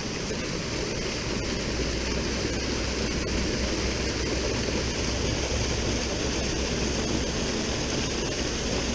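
Steady, even rush of river water pouring over a small waterfall into a pool, with a low rumble underneath.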